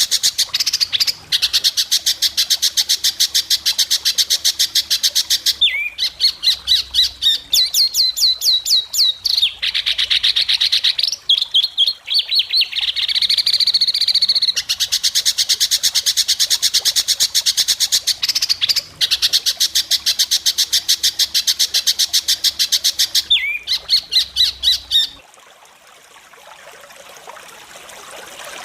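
White-rumped shama (murai batu) singing fast, sharp rattling trills, the 'besetan' notes, in long runs of rapidly repeated high notes broken by short pauses. The singing stops a few seconds before the end.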